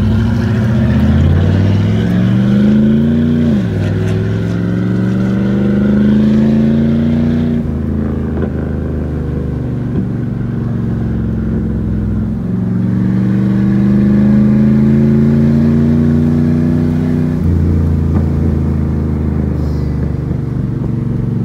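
Truck engine and freshly fitted muffler exhaust accelerating through the gears. The pitch climbs and drops at a shift about 3.5 s in and again about 7.5 s in, holds steadier, then climbs again from about 12.5 s to another drop near 17.5 s.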